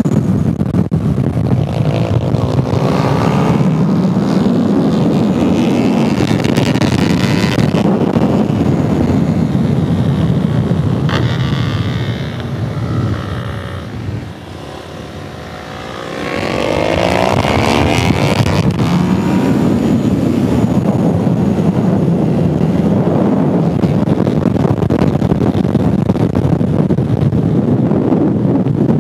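Motorcycle engine running hard, heard close up from a camera on the bike, its pitch rising and falling as the rider works the throttle and gears. About halfway through it eases off and goes quieter for a few seconds, then climbs again in a rising whine as the bike accelerates out of the corner.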